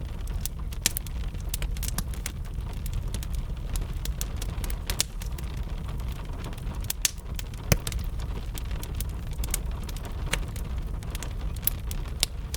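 Wood fire crackling with irregular sharp pops over a steady low rumble, mixed with gentle rain.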